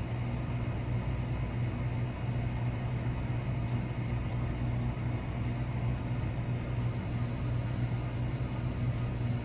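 A steady low mechanical hum with no bird calls heard.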